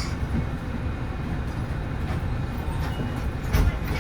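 Diesel engine of a 2010 Nissan Diesel RA274 city bus idling with a steady low rumble, heard from inside the bus while it stands before pulling away. A short knock sounds about three and a half seconds in.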